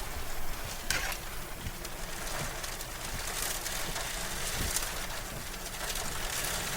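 Wind-driven rain and hail pelting steadily, with a few separate sharp knocks of hailstones striking, about a second in and again past the middle.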